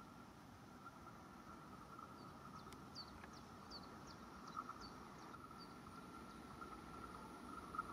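Quiet outdoor ambience: a small bird sings a quick run of about eight short, falling chirps in the middle, over a faint steady high hum and a low rumble that slowly grows louder toward the end as a train approaches.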